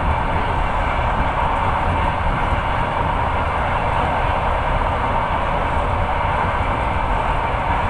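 Steady running noise of a moving long-distance passenger train heard from inside the carriage: an even rumble and rushing hiss.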